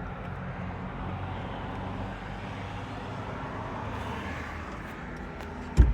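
Steady low outdoor background hum of traffic noise, with one dull thump near the end.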